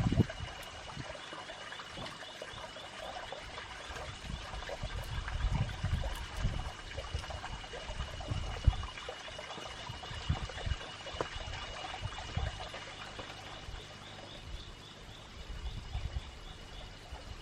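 Water trickling, with a steady high-pitched chirring call and scattered low thumps.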